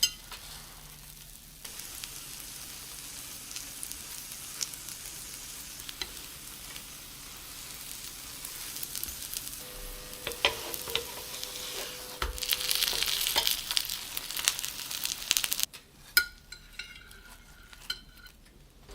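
Food sizzling in a frying pan, with scattered clicks of stirring or a utensil against the pan; the sizzle grows louder for a few seconds near the end, then stops abruptly, leaving a few light clicks.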